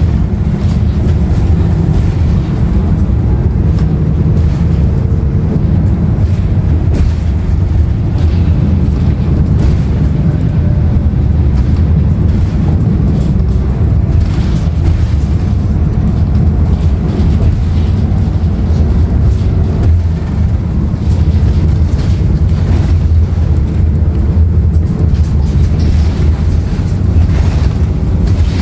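Interior of a 2016 Nova Bus LFS transit bus underway: the steady low drone of its Cummins ISL9 diesel engine, mixed with road noise.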